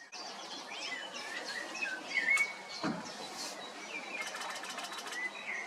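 Small birds singing and chirping, many short varied phrases overlapping. There is a single sharp click a little over two seconds in, a dull knock about a second later, and a rapid run of clicks near the end.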